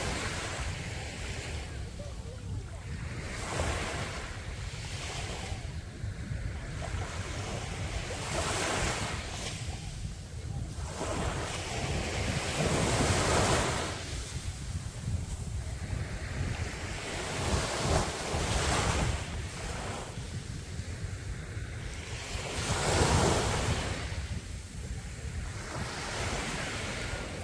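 Sea waves breaking on a beach, each surge of surf swelling and fading every four to five seconds, with wind rumbling on the microphone.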